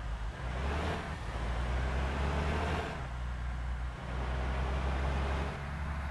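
Mitsubishi Fuso Canter dump truck engine running steadily with a low hum, and a broad rushing, hissing noise from about half a second to three seconds in.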